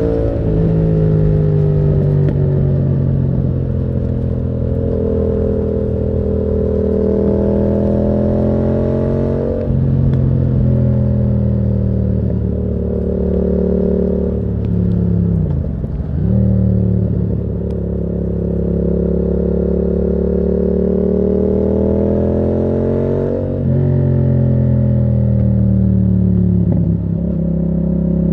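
Yamaha MT-07's parallel-twin engine through a Termignoni exhaust, under way and pulling through the gears. The pitch climbs steadily, then drops sharply at each of several gear changes, with one deep dip and recovery about halfway through.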